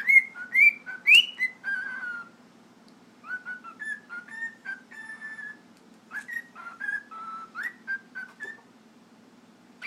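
Cockatiel whistling its song: three phrases of short, clear warbled notes that hop up and down in pitch.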